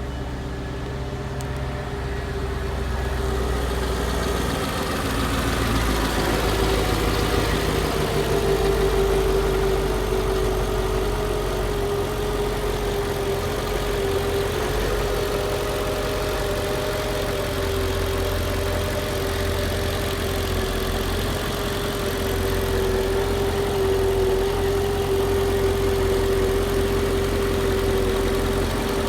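2004 Mercedes-Benz S55 AMG's supercharged 5.4-litre V8 idling steadily just after a cold start. It grows a little louder over the first few seconds, then holds an even idle.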